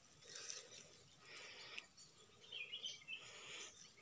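Faint outdoor ambience: a few small bird chirps about two and a half seconds in, over a steady high-pitched hiss.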